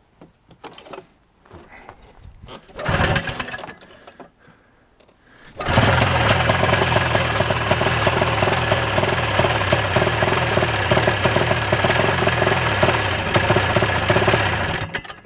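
1987 Ski-Doo Safari 377 snowmobile's small two-stroke engine firing briefly about three seconds in, then catching about six seconds in and running steadily for about nine seconds before it dies abruptly near the end. It is running on carb cleaner sprayed into the intake, because fuel is not being drawn up the fuel line.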